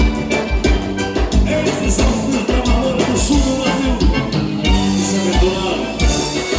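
Live gaúcha dance band playing an instrumental passage, accordion-led with sustained notes over a steady bass-drum beat.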